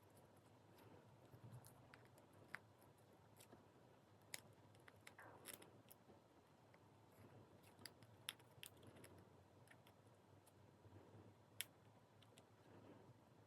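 Near silence broken by sparse, faint clicks and light scrapes of small repair tools working on a phone's internal parts during disassembly.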